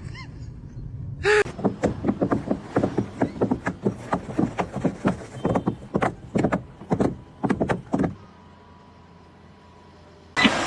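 A quick, uneven series of sharp knocks, several a second, that stops about eight seconds in, followed by a sudden loud burst of noise at the very end.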